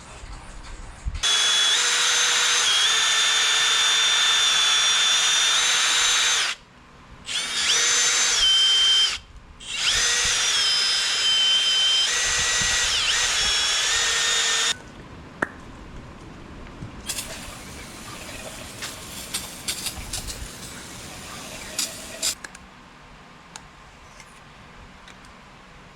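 A motor-driven power tool running loudly in three runs with two short stops between them, its whine shifting slightly in pitch as it goes. It cuts out about 15 seconds in, leaving light clicks and taps.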